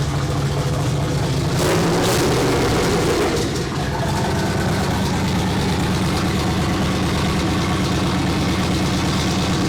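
Car engine idling with a steady low rumble, running louder for a second or so about two seconds in.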